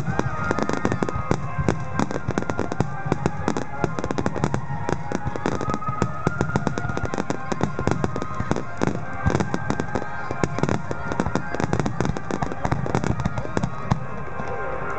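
A large fireworks display: many sharp bangs and crackles in quick, continuous succession, over music played through loudspeakers.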